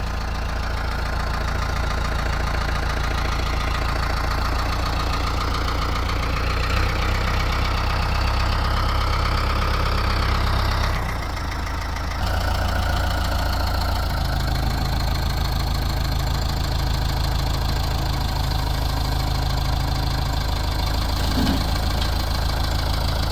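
Heavy equipment engines running steadily while a backhoe loads a small tree stump onto a flatbed truck; the engine note dips briefly about eleven seconds in, then settles back.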